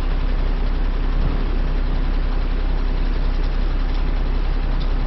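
Large truck's diesel engine idling steadily, a constant low drone with no change in speed.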